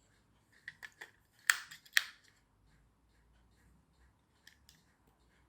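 A run of short, sharp plastic clicks and taps as a battery is handled and fitted into a small toy car's battery compartment, with two louder clicks close together about a second and a half in and a few faint ticks near the end.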